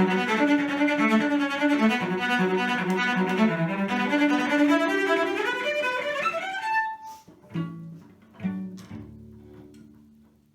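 Bowed strings, violin and cello, playing a piece with a rising run; the music stops about seven seconds in, followed by two short low notes and a fade to quiet.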